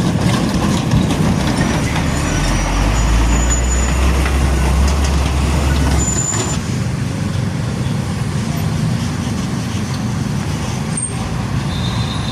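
Heavy diesel truck passing with a deep engine rumble that eases off about six seconds in, over steady road traffic. A few brief high-pitched squeals come through.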